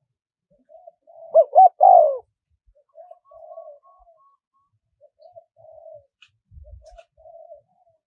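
Spotted dove cooing: one loud three-note coo about a second in, followed by three softer coo phrases.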